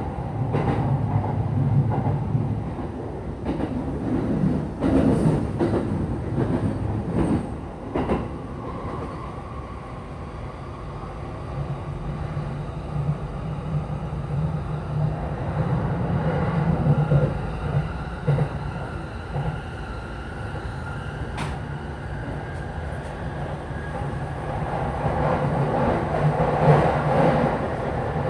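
A TWR 70-000 series electric train running between stations, heard from inside the car: a steady rumble of wheels on rail with a few sharp clicks in the first several seconds. A faint whine rises slowly in pitch through the middle.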